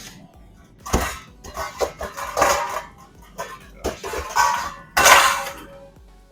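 Kitchenware clattering as a mixing bowl is taken out and set down: a string of knocks with brief ringing, and a longer, louder rattle about five seconds in.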